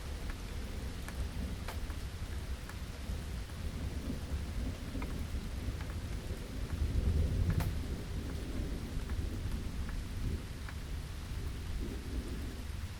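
Steady rain with scattered sharp drop taps and a low rumble of thunder that swells for about a second, around seven seconds in.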